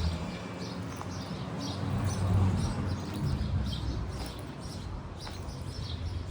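Small birds chirping in short, high calls, about two or three a second, over a low street rumble.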